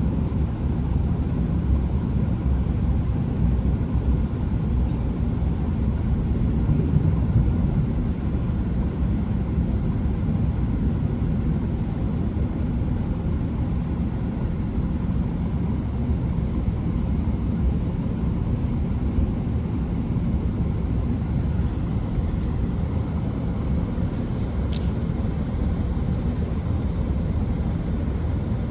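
Class 165 diesel multiple unit heard from inside the carriage while running at speed: a steady low rumble of the underfloor diesel engines and the wheels on the rails. There is one short click near the end.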